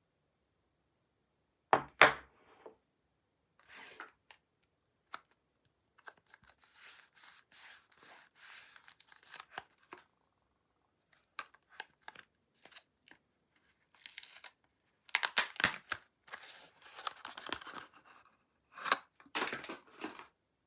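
Soap packaging being torn open and handled: two sharp rips about two seconds in, then intermittent tearing and crinkling with a few small clicks, and the loudest ripping in the last several seconds.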